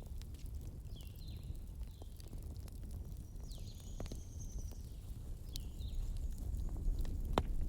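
Campfire burning, with a steady low rumble and scattered sharp crackles and pops, one louder pop near the end.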